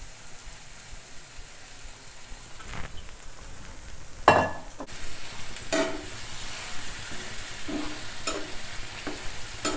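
Mushroom masala sizzling in a hot pan as it is stirred and scraped with a spoon. The spoon knocks against the pan several times, loudest about four seconds in, and the sizzle grows stronger from about halfway through.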